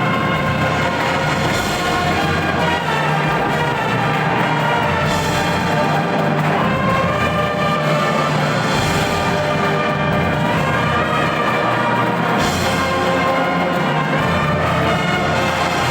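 Marching band brass section and percussion playing a piece with full, steady chords, the low notes changing every few seconds.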